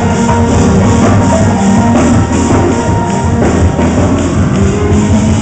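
Live gospel praise-break music, loud: a band with drums and a fast, even tambourine beat.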